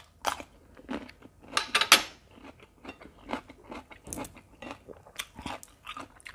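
Crunching bites and chewing of raw cucumber, the loudest crunches coming in a quick cluster about two seconds in, followed by softer, irregular chewing clicks.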